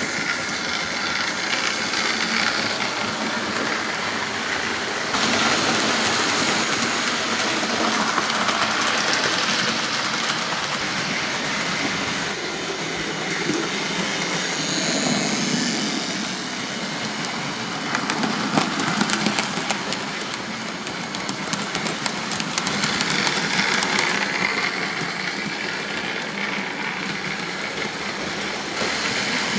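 OO gauge model trains running on the layout's track: a steady rushing and rattling of small wheels on rail with electric motor whir, changing abruptly about five seconds in and again near the end.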